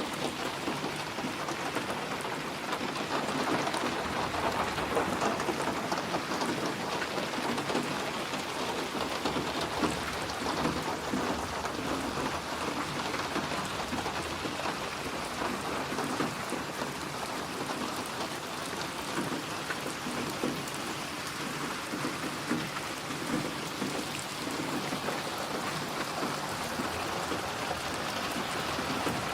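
Steady rain falling on a surface, a dense patter that swells slightly louder a few seconds in.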